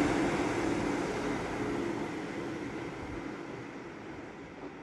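Class 195 diesel multiple unit running away along the track, its engine hum and wheel rumble fading steadily.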